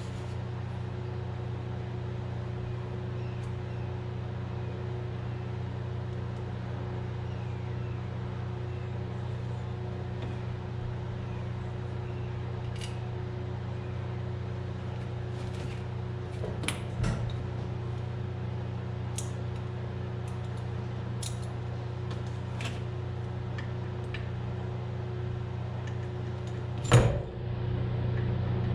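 Steady low hum with scattered light clicks and taps of small metal parts and hand tools being handled, and a louder knock near the end.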